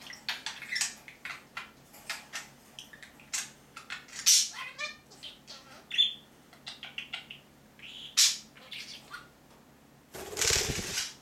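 A pair of budgerigars chattering with rapid short chirps and squawks, with louder sharp calls about four and eight seconds in. Near the end a loud rustling noise lasts about a second.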